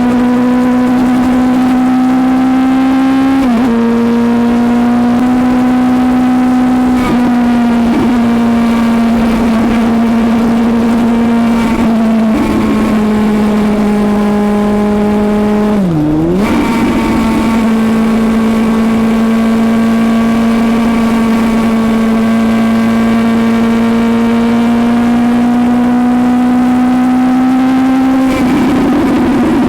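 Suzuki GSX-S750's inline-four engine running at a steady high pitch at speed. It dips briefly a few times, with a sharp drop and recovery in pitch about halfway through, and rises slightly near the end.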